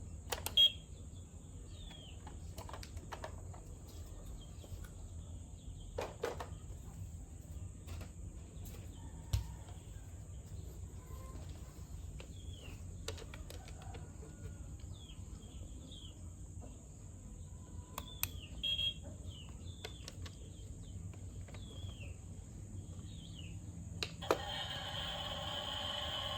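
Outdoor background of short, repeated bird chirps over a steady low rumble and a thin high hiss, with a few sharp clicks. Music comes in near the end.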